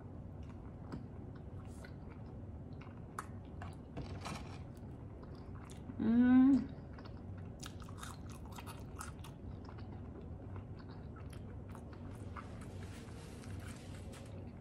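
Close-up chewing of a chicken sandwich and fries, with many small wet mouth clicks. About six seconds in, a short, loud hummed 'mm' from the eater. Near the end, a paper napkin rustles for about two seconds.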